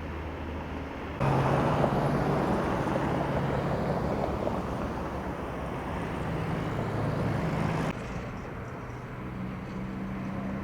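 Engines of road-works machinery or traffic running steadily. A louder, rougher engine sound starts abruptly about a second in and cuts off just before eight seconds.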